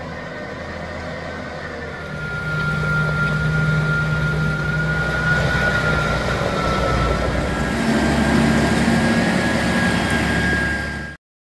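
Heavy diesel excavation machinery running under load, with a steady high whine over the engine; it grows louder about two seconds in and cuts off suddenly near the end.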